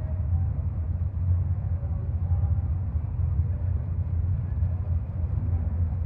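Steady low rumble of idling race car engines.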